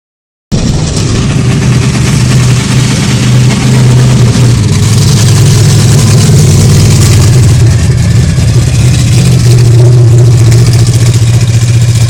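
Monster truck engine running very loud, a heavy steady low drone that cuts in abruptly about half a second in.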